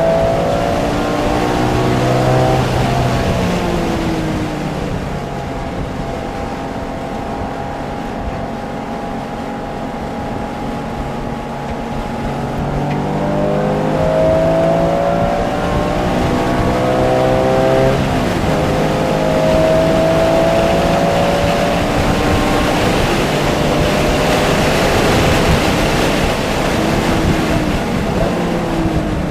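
Porsche sports car engine at full track pace, pulling hard and rising in pitch several times, then dropping off for braking and corners, over steady tyre and wind noise.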